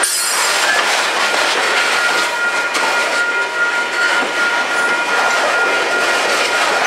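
Freight hopper cars rolling past close by: steady noise of steel wheels running on the rails, with a thin high-pitched squeal and a few faint knocks.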